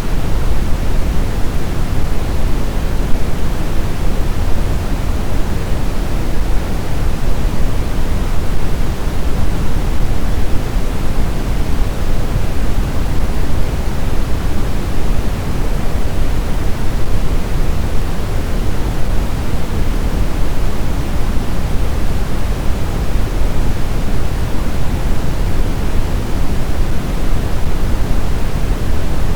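Steady blizzard wind: an even, deep rushing noise, heaviest in the low end, with no distinct gusts or howls.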